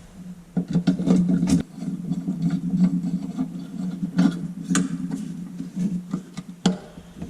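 Scattered small clicks and light scraping of an old Coleman lantern's metal parts being handled while a screw is put back in, over a steady low hum.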